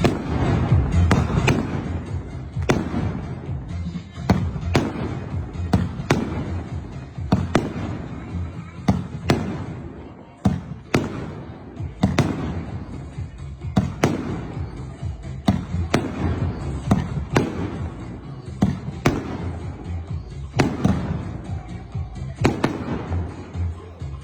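A 568-shot fireworks cake of 1-, 1.2- and 2-inch tubes firing its shots one after another, with about one or two sharp cracks a second over a continuous low rumble.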